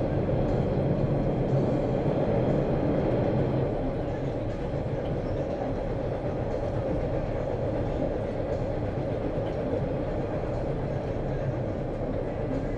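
Subway train running: a steady low noise with a faint hum, slightly quieter after about four seconds.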